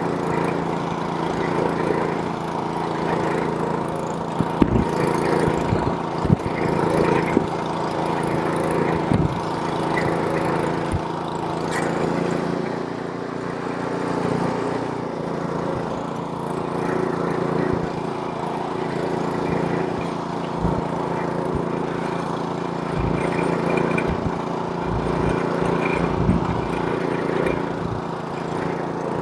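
Small-engine snowblower running steadily, with occasional low thumps.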